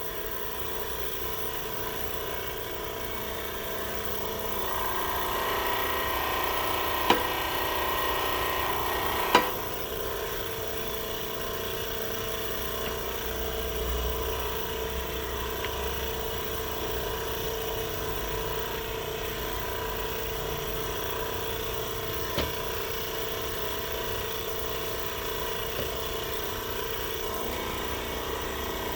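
Sun hydraulic press running steadily as it pushes a keyway broach through a steel pulley hub, with a few sharp clicks from the cut: two close together and one more later.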